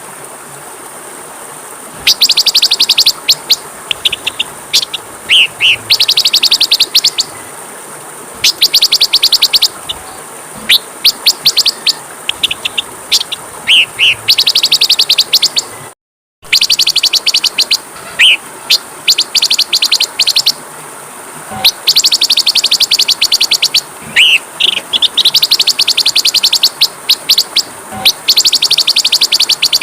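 Oriental magpie-robin (kacer) song: bursts of very rapid, buzzy trilled notes lasting a second or so, repeated every couple of seconds, mixed with short falling whistles, over a steady faint high hiss. The sound cuts out completely for a split second about halfway through.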